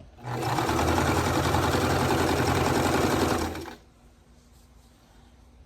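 Electric sewing machine stitching a short quilt-piecing seam at speed: a fast, steady run of stitches over the motor's hum. It runs for about three and a half seconds, then stops.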